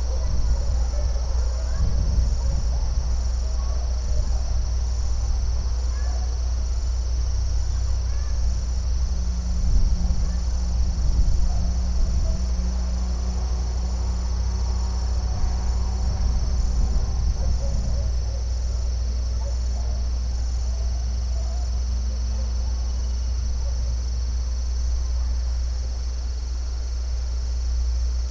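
Insects trilling steadily in a high, continuous chorus, with a steady low rumble underneath and scattered faint chirps.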